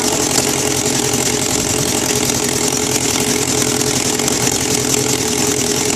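Formula SAE race car engine running steadily on its first test run, with a fast, even rasping pulse and no change in speed.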